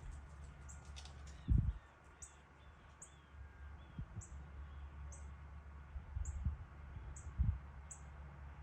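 A small bird chirping faintly outdoors, short high chirps repeated about once a second, with fainter lower calls between them. Two brief low thumps, about a second and a half in and near the end, are the loudest things heard.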